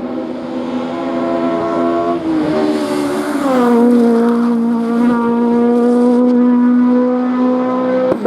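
Race car engine running hard on a hill-climb course, getting louder. Its pitch falls about two to three and a half seconds in, then holds steady at high revs.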